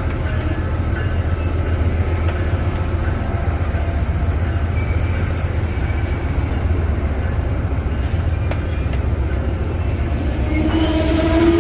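Amtrak Downeaster passenger train rolling into a station, a steady low rumble of locomotive and rail cars. Near the end a loud pitched squeal of several tones rises in.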